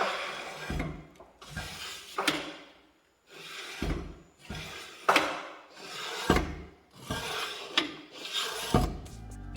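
Repeated rough scraping or rasping strokes, about one a second, several of them starting with a sharp knock.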